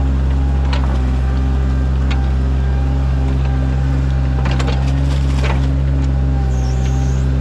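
Sany mini excavator's diesel engine running steadily under work, with a few short knocks and scrapes from the digging.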